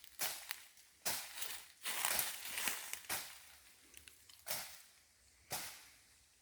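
Footsteps crunching through dry leaf litter and undergrowth, slow uneven steps about one a second.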